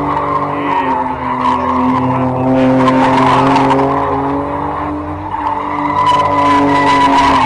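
BMW E30 doing a burnout, its tyres spinning and squealing over the engine held at high revs. The pitch stays steady, with a brief dip in level a little past five seconds in.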